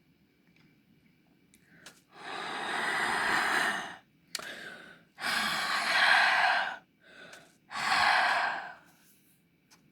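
Three long, breathy exhales close to the microphone, each about a second and a half, with two short breaths between them.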